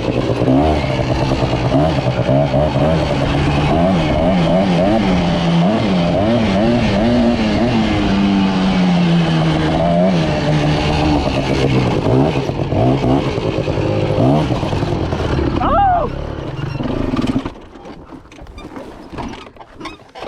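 Small motorbike engine running and revving unevenly, its pitch rising and falling with the throttle, then cutting out about three seconds before the end: the engine has stalled.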